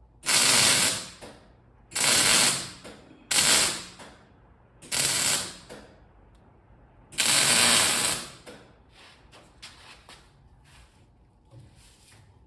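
Arc welder laying five short tack welds on steel, each a burst of under a second with gaps of about a second between them.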